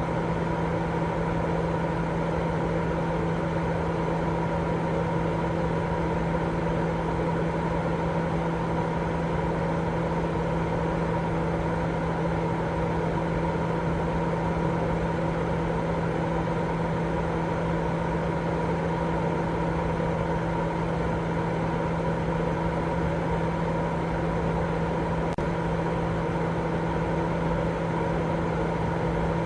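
Steady, unchanging white-noise-style sleep sound: a low, even rushing with a steady hum under it, and most of the sound in the low and middle range. It holds the same level throughout.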